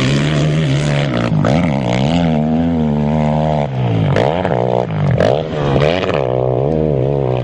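Dirt-bike engine revving up and down repeatedly, its pitch dipping and climbing several times.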